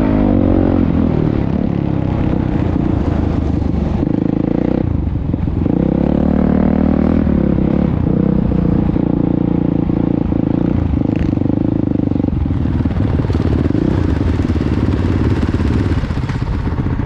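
Motocross motorcycle engine running hard. Its pitch rises and falls and changes in steps as the throttle and gears change, with a few short dips in between.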